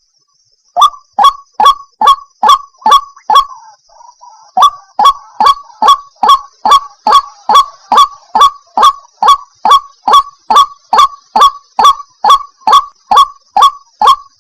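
White-breasted waterhen (ruak-ruak) calling in a rapid, even series of short, downward-sliding notes, about two and a half a second, with a brief break just after three seconds.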